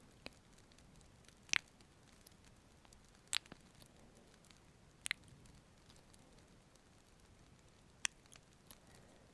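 Soft kiss sounds, wet lip smacks close to the microphone, about six of them at uneven intervals of a second or two over a faint hiss.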